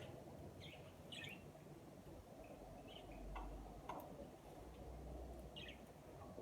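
Budgerigars chirping faintly, a few short warbling chirps scattered through, with a couple of light clicks about four seconds in.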